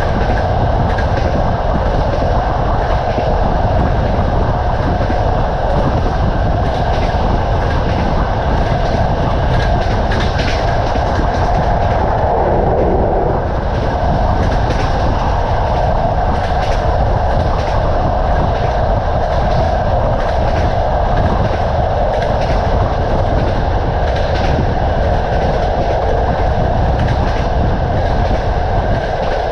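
Passenger train running at speed: the steady rumble of the rolling train, with the wheels clattering over the rail joints.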